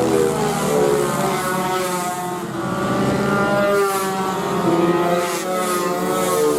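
Several small race motorcycles' engines at high revs, their pitches rising and falling out of step as the riders accelerate and shift gears.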